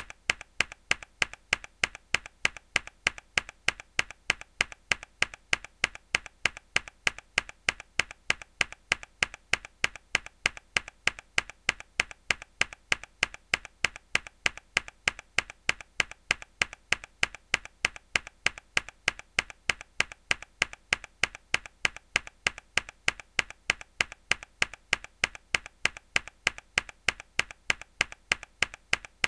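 A mechanical keyboard key pressed hard, over and over at an even pace of about three sharp clicks a second.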